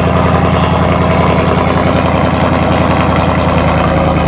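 2017 Ford Mustang GT's 5.0-litre V8 idling steadily through an ARMYTRIX valved cat-back exhaust, still cold from its start-up.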